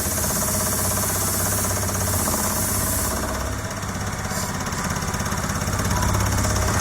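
Stall-warning stick shaker in a Pilatus aircraft rattling the control column with a fast, steady buzz, switched on suddenly as the stall warning system is tested.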